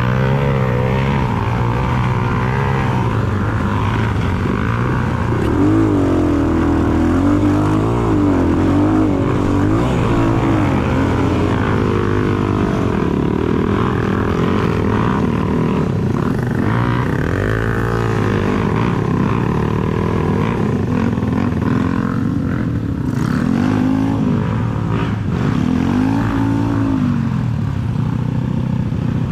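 Enduro dirt bike engine revving up and down over and over, its pitch rising and falling every second or two.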